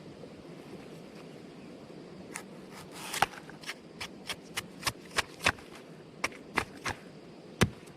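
A quick series of about a dozen sharp snaps and clicks, starting about two seconds in, from foraged plant food being peeled apart by hand.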